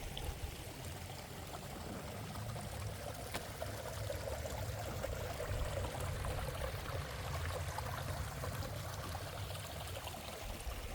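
Water running steadily, a continuous even rush of flowing water.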